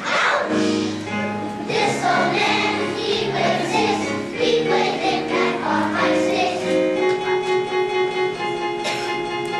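Children's choir singing with instrumental accompaniment, the music starting abruptly and loudly at the outset.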